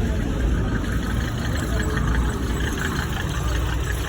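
A motor vehicle engine idling close by, steady throughout, amid roadside traffic noise.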